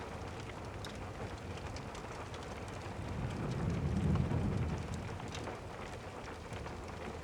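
Steady rain with scattered light ticks, and a low distant thunder rumble that swells about three seconds in and fades away again a couple of seconds later.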